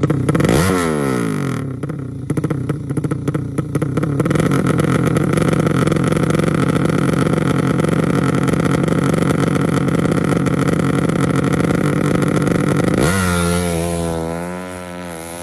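Yamaha Jupiter motorcycle engine running while being tuned. Its pitch drops quickly just after the start, then it holds a steady speed. Near the end the speed wavers up and down and the sound grows fainter.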